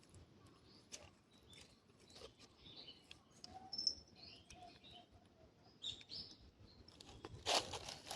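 Faint bird chirps in a quiet outdoor background, then two crunching footsteps near the end.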